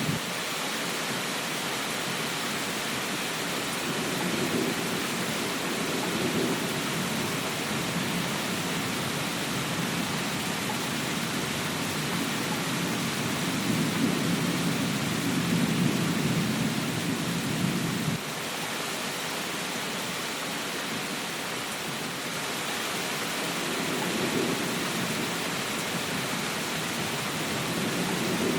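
Steady rain hiss with low rolls of thunder swelling and fading several times. The loudest roll, past the middle, cuts off abruptly.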